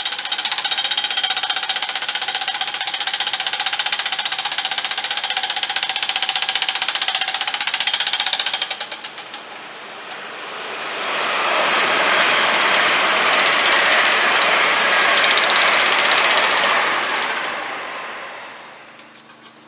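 A loud rapid mechanical hammering rattle with a steady whine over it, which stops abruptly about nine seconds in. Then an LNER Azuma high-speed train passes at speed: a rush of wheel and air noise that swells, holds for several seconds and fades away.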